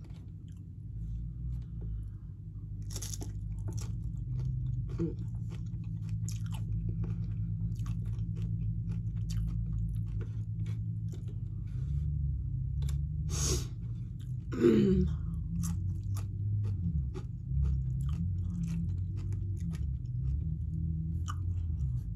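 Chewing and crunching of nachos, with many small mouth clicks throughout.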